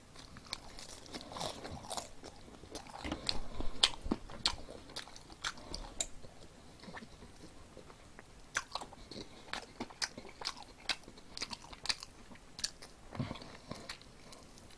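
Crisp-battered fried chicken, with perilla leaves fried into the batter, being bitten into and chewed: irregular crunches and crackles.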